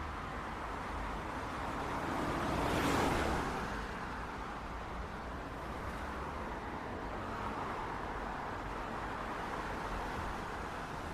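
City street traffic: a steady hum of cars, with one vehicle passing close by and loudest about three seconds in.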